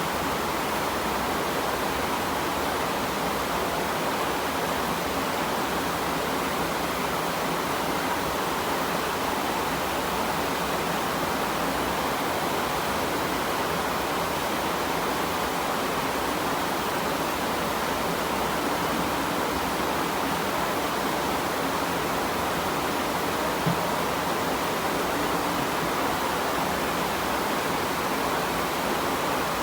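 Steady rainfall, an even hiss at a constant level with no breaks.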